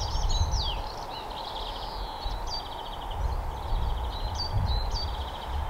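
Small birds chirping, with short whistled glides and a rapid trill, over a steady low rumble of wind on the microphone.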